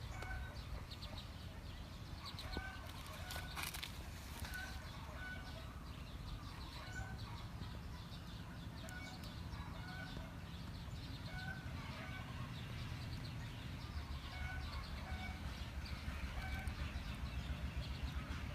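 Birds calling: short, same-pitched calls repeated about once a second, over a low steady rumble.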